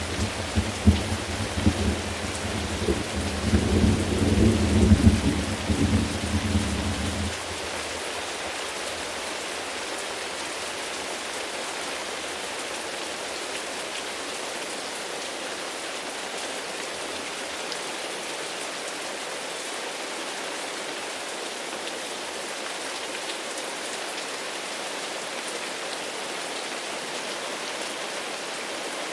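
Thunder rumbling over steady rain, the rumble cutting off suddenly about seven seconds in. After that, steady rain falling alone.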